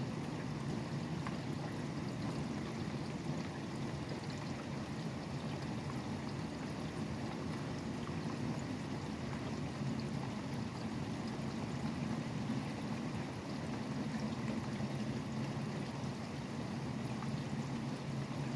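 Steady rain falling, with the low, constant rumble of nearby highway traffic beneath it.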